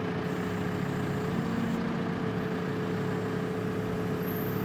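Heavy diesel engine idling steadily, a low running hum with a steady whine over it.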